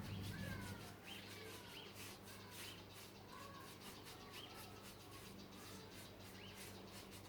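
Faint chirps of small birds, short sweeping calls repeating every second or so, over a low steady hum that drops away about a second in.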